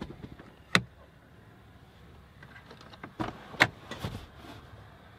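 Rear seatbacks of a Volkswagen Passat wagon being released and folded down: a sharp latch click about a second in, then a cluster of clunks and clicks a few seconds later, the loudest in the middle of them.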